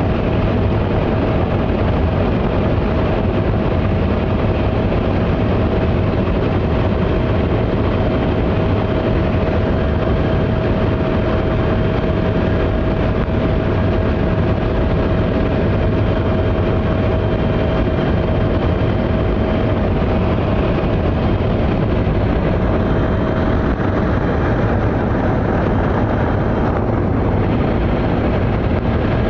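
A steady, loud engine drone with a constant hum.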